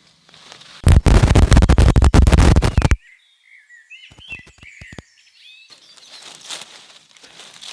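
A loud crackling, rustling noise for about two seconds, cut off abruptly, then small birds chirping in short, quick calls, followed by a softer rustling.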